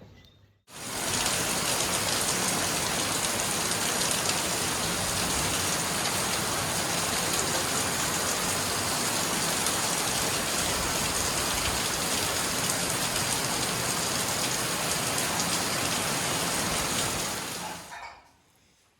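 Rain falling steadily, a dense even hiss that starts suddenly about a second in and fades away near the end.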